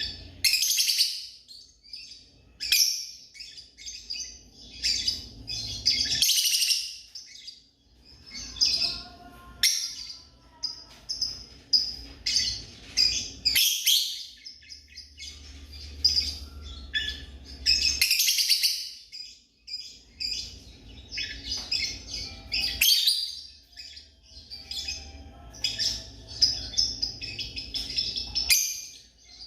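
Lovebirds chirping: many shrill, high chirps and squeaks in quick clusters, with short breaks between them.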